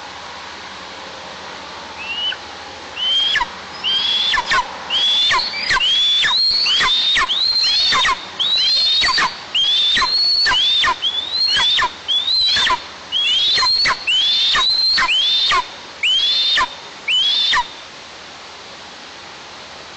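Eaglets in the nest giving a long run of loud, high begging calls, about one or two a second, each rising and then dropping sharply, calling for a parent that has not come. The calling starts about two seconds in and stops a couple of seconds before the end.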